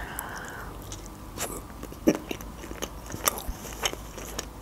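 A person biting into a sushi roll and chewing it with closed lips: a soft bite at the start, then scattered wet mouth clicks.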